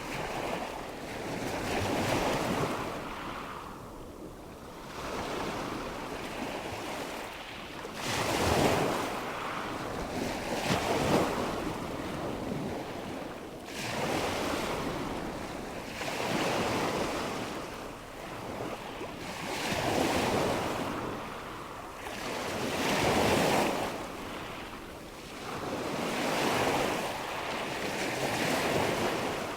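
Nature-ambience recording of rushing water and wind, a steady rush that swells and fades in surges every few seconds.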